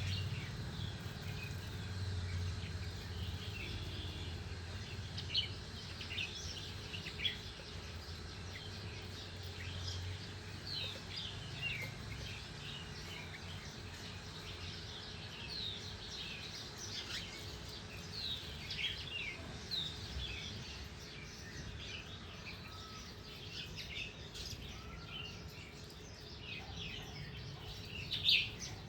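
Small garden birds chirping and calling: many short, high chirps and quick falling notes from several birds, with one louder chirp near the end.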